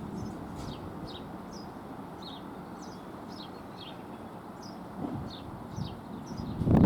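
A small bird calling again and again in short, downward-sliding chirps, about two or three a second, over a low outdoor rumble. A louder low rumble swells up near the end.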